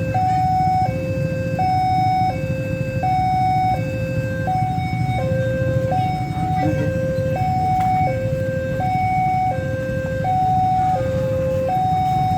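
Railway level crossing warning alarm sounding a steady two-tone hi-lo signal, its two notes alternating about every three-quarters of a second, over a low rumble. It warns that a train is approaching and the crossing is closing.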